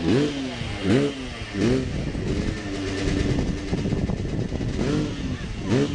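Motocross bike engines revving in sharp throttle blips, the pitch jumping up and falling back about once a second. Through the middle of the stretch the throttle is held at a steady note.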